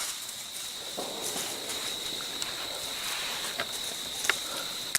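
Outdoor creekside ambience: a steady high-pitched insect drone over a soft rushing noise that comes in about a second in, with a few faint clicks near the end.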